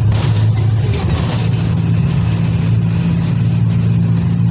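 Diesel engine of a Mercedes-Benz OF 1722M bus running, a steady low hum with a slight shift in tone about a second in.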